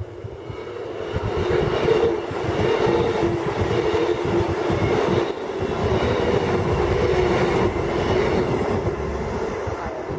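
Queensland Rail electric multiple-unit train running through the station without stopping: a loud rumble of wheels on rail with a steady hum, building about a second in and fading near the end as the train clears the platform.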